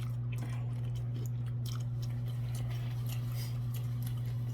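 A person chewing food with small crunchy, clicking mouth sounds scattered through, over a steady low electrical hum.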